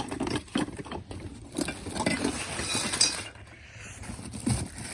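Small ornaments and trinkets clinking and knocking against each other as they are handled and set down: an irregular run of light clinks and knocks with some rustling between them.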